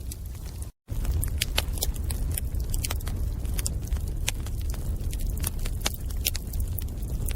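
Bonfire crackling: irregular sharp pops and snaps from burning wood over a steady low rumble of the flames. The sound cuts out completely for a split second just under a second in, then resumes.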